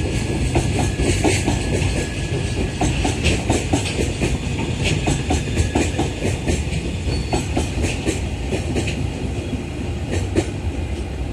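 Freight train of loaded container flatcars rolling past, its wheels clicking repeatedly over the rail joints over a steady low rumble that eases slightly near the end.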